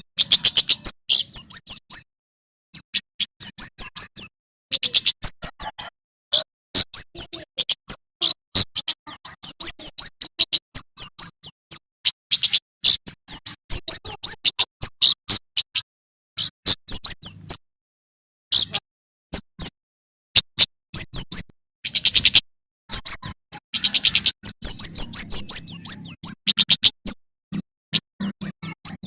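Male prenjak keres (kemade) singing, a fast run of sharp, high chirps repeated in bursts. The bursts are broken by short gaps of dead silence.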